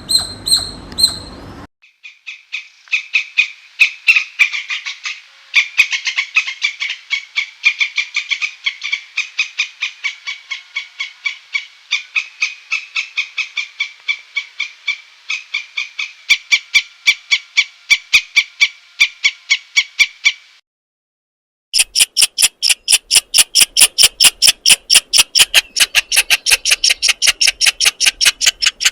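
Squirrel alarm calls: sharp chirping barks repeated several times a second in long series, with a brief silence just past two-thirds through before a louder, faster run.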